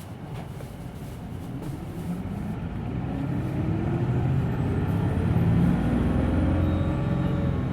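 Hino Blue Ribbon City Hybrid bus's diesel engine heard from inside the cabin, revving up as the bus accelerates hard. It rises in pitch and grows louder over the first few seconds, then runs loud and steady.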